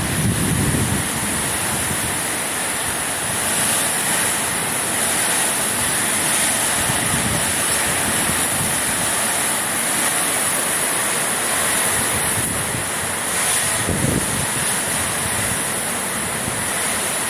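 Tropical storm noise: a steady, loud rush of heavy rain and wind, cutting off suddenly at the end.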